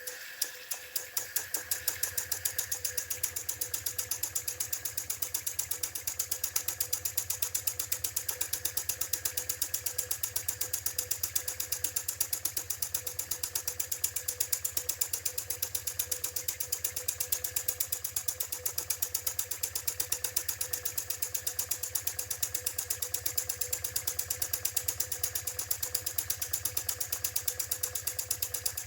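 IND-X electrically heated toy steam engine running at low speed: an even, rapid rhythm of exhaust beats, a little slower in the first second or two, over a steady steam hiss.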